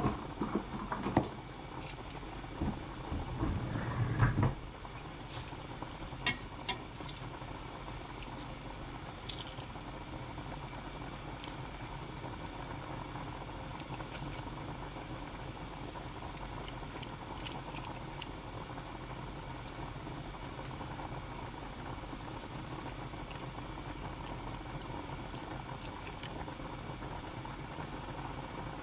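Diced tomatoes and onions sizzling steadily in a stainless steel frying pan on a gas burner. Knocks and clicks of utensils against the pan come in the first four seconds or so, with scattered small clicks later.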